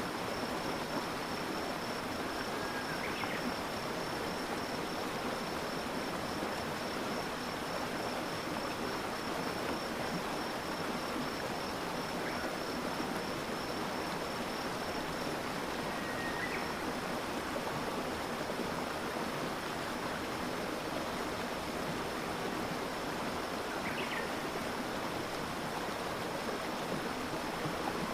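Stream water flowing steadily with an even rush. A thin, high, pulsing trill runs along with it, stronger in the first half, and there are a few brief faint chirps.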